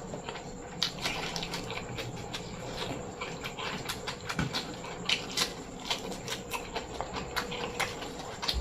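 Close-miked chewing and wet mouth sounds of a person eating: irregular small clicks and smacks, several a second.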